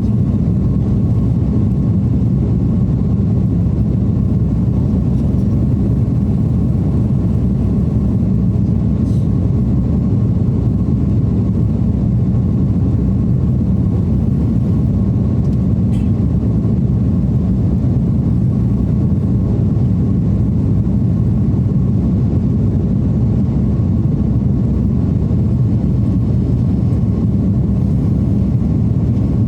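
Steady engine and airflow noise of an airliner heard inside the passenger cabin in flight, a constant low rumble with a faint steady tone above it.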